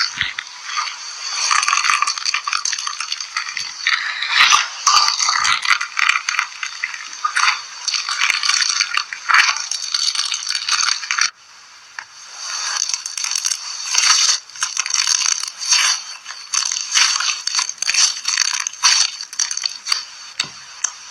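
Slime being squeezed and worked by hand in a slime ASMR video, a dense run of crackling, clicking pops, broken off briefly about eleven seconds in before it starts again.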